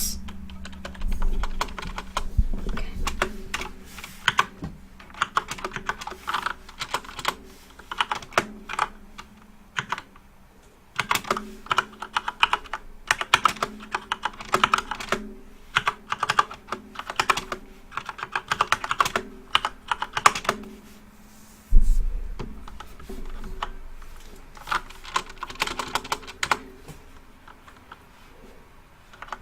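Typing on a flat computer keyboard: quick runs of key clicks, broken by short pauses, with a dull thump about 22 seconds in.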